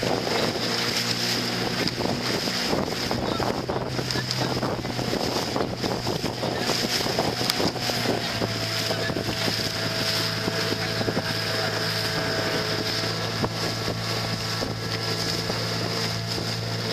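Outboard motor of a coaching launch running steadily, with wind on the microphone and water rushing past the hull.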